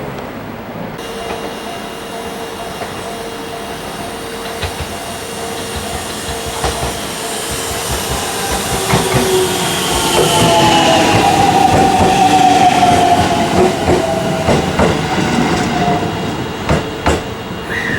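Freight train of empty oil tank wagons, hauled by two EF64 electric locomotives, rolling past: a steady rumble that swells to its loudest about halfway through and then fades, with wheels clicking over rail joints and squealing tones sliding down in pitch.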